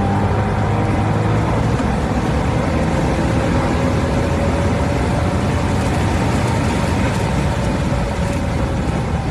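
Corvette C6 Grand Sport's V8 engine running hard at track speed, heard onboard under heavy wind and road noise. The engine note climbs slowly through the middle.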